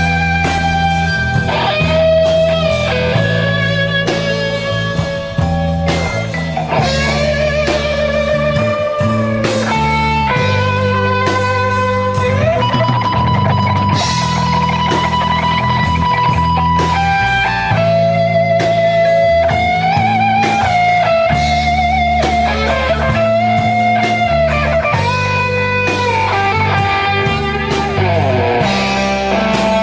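Rock band playing live: long held electric guitar notes that bend and waver, over bass and drums.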